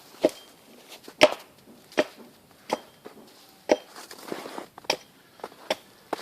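Repeated sharp chopping blows, about seven in six seconds at an uneven pace, with a short scraping sound between blows about four seconds in.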